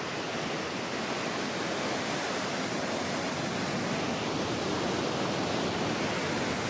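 Waterfall rushing: a steady, even roar of falling water pouring through a rock gorge.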